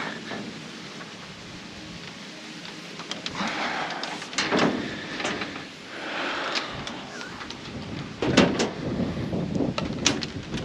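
Hands working a wire along a tractor: scattered clicks and knocks, the loudest about four and eight seconds in, with bursts of rustling in between.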